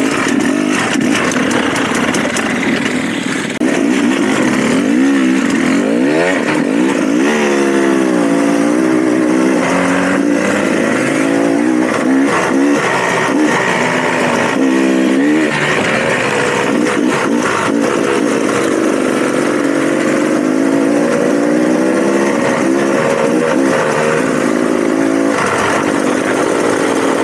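Dirt bike engine running under changing throttle, its pitch rising and falling again and again.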